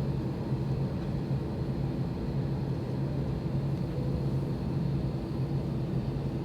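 Steady cabin noise of an Airbus A320 on the ground before its takeoff roll: an even rushing sound with a constant low hum.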